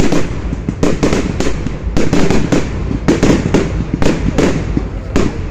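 Fireworks going off in quick succession: sharp bangs and cracks come several a second at uneven intervals, over a steady low rumble.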